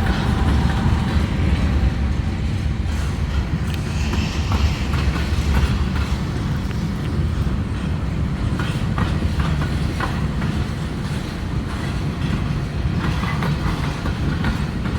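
Train cars rolling past close by: a steady low rumble with irregular clicking from the wheels passing over rail joints.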